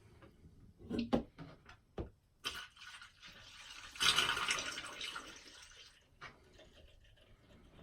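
Non-toxic plumbing antifreeze pouring into a funnel and running down a hose into a hot water tank, with a few short knocks about one and two seconds in. The pour is loudest around four seconds in, then tails off.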